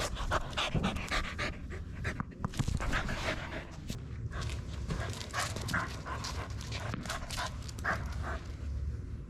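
A dog panting fast and hard, out of breath from play.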